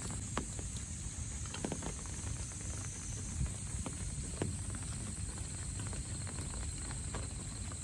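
Irregular footsteps on a path over a steady, high-pitched insect drone and a low rumble.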